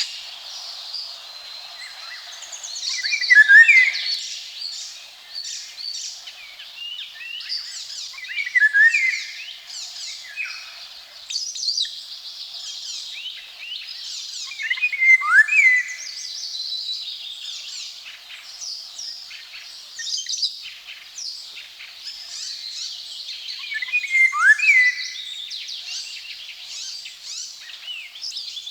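Eurasian golden oriole (Oriolus oriolus): the male sings short fluting whistled phrases with gliding notes four times. A continuous chorus of other woodland songbirds twitters higher behind it.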